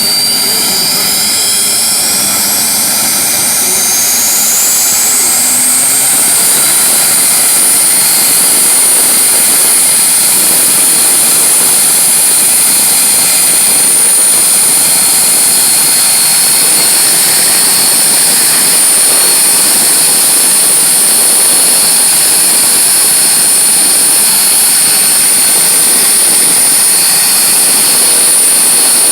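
Jet engine spooling up: its high whine rises in pitch over the first six seconds, then holds as a steady loud whine.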